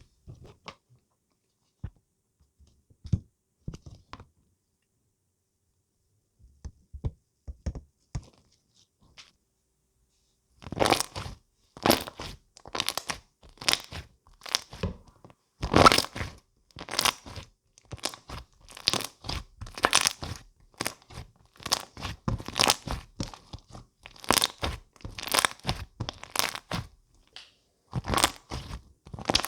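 Close-miked crunching and popping: a few scattered clicks at first, then from about ten seconds in a dense, crackly run of pops, several a second.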